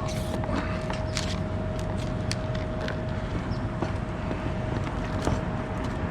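Bucket truck's engine running steadily with a thin steady whine over it, and scattered small clicks and taps of hand work.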